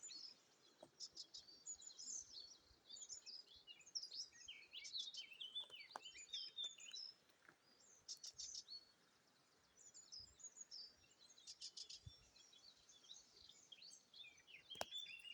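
Songbirds singing in spring, several overlapping rapid chirps and trills, with a short lull about halfway through.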